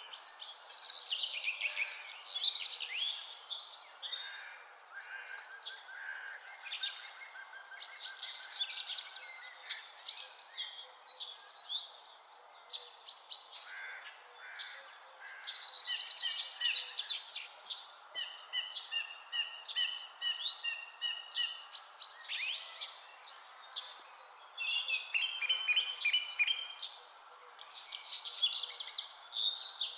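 Several songbirds singing over one another in a continuous mix of trills, whistles and chirps. Around the middle, one bird repeats a short note in a quick, even series. A steady faint hiss lies underneath.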